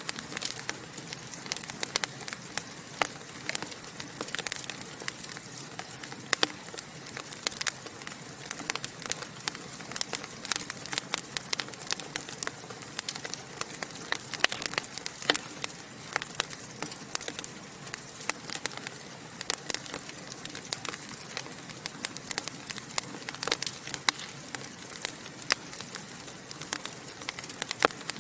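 Wood fire in a fireplace crackling and popping: many irregular sharp pops and snaps over a steady soft hiss of burning.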